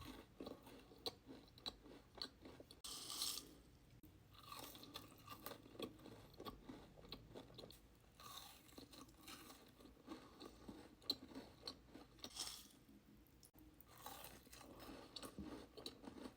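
Close-miked chewing of a crunchy chocolate cookie with a soft filling, with soft crackles and crunches and a few louder bites.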